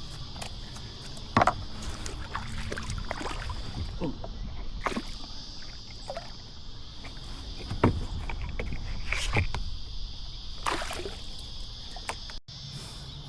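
A steady, high-pitched insect chorus, with scattered sharp knocks and splashes of paddling or handling a kayak at the water's edge.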